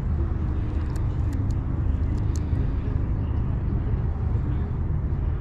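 Steady low outdoor rumble, with a few short sharp clicks between about one and two and a half seconds in.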